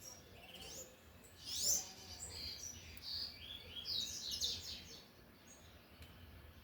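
Double-collared seedeater (coleiro) singing a 'tui-tui' style song: a run of quick, high, rising whistled notes and trills from about a second and a half in to about five seconds in.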